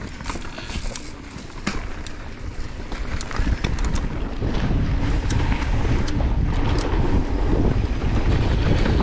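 Wind buffeting the microphone of a downhill mountain biker, growing louder about three seconds in as speed builds. Underneath are clicks and rattles of the tyres and bike on the dirt trail.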